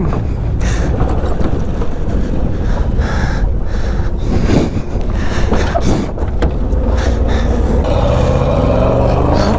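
Pickup truck driving off-road, engine running under a loud, steady low rumble with jolts and rattles from rough ground, heard from the truck bed. Near the end the engine note rises as it revs up.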